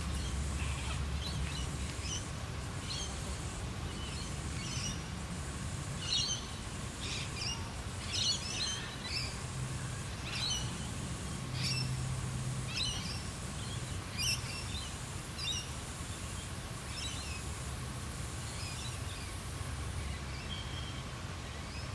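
Wild birds in Australian bush calling with many short, high chirps, busiest in the middle, over a steady low rumble and a steady high hiss.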